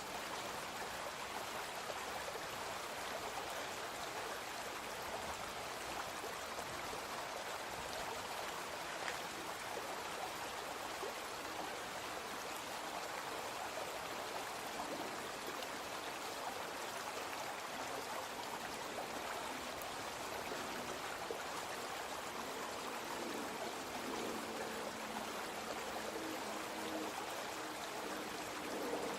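A small brook flowing steadily, an even rushing and trickling of water. A faint low hum joins in over the last several seconds.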